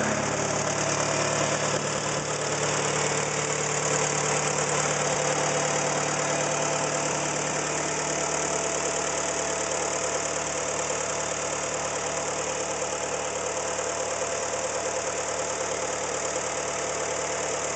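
1952 Case VAC tractor's four-cylinder engine idling steadily just after being started.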